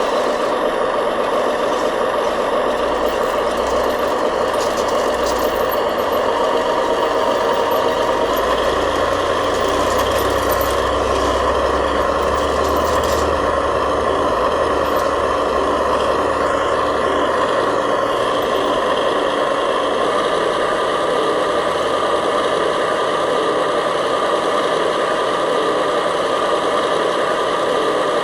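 Remote-control model construction machinery running steadily, a bulldozer and dump trucks at work, with a constant mechanical drone of motors and gearing. A low rumble joins in for several seconds in the middle.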